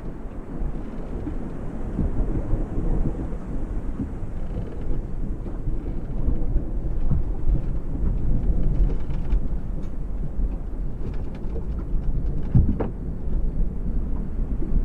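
Distant thunder rumbling low and continuously, building up over the first couple of seconds, with water lapping against a yacht's cabin. A sharper hit stands out near the end.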